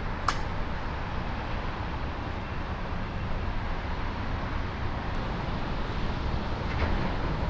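Steady low rumble and hiss of a running vehicle, with a faint steady hum and one sharp click about a quarter second in.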